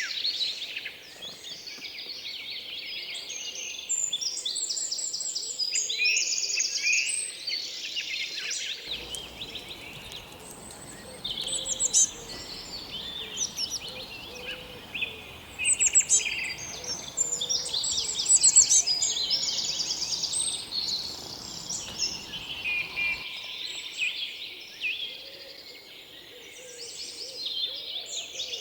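Many small birds chirping and trilling at once in a dense, unbroken chorus of high calls. A low background rumble comes in about a third of the way through and stops again near the end.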